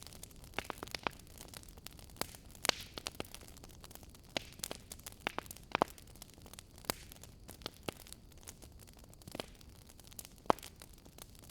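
Wood fire in a fireplace crackling, with irregular sharp pops and snaps over a low hiss; one loud pop about ten and a half seconds in.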